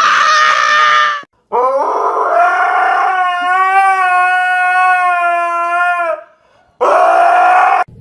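Dog howling: three drawn-out howls, the middle one rising at the start and then held for several seconds.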